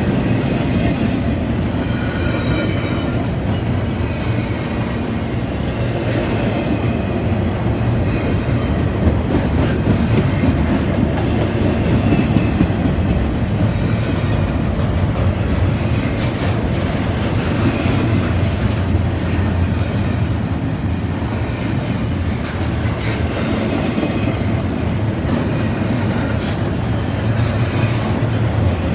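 Double-stack intermodal freight train passing close by: a steady rumble and rattle of loaded container well cars rolling over the rails, with the wheels clattering, more sharply near the end.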